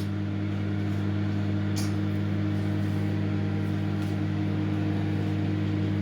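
Microwave oven running on full microwave power while baking a cake, a steady low hum with a couple of faint ticks.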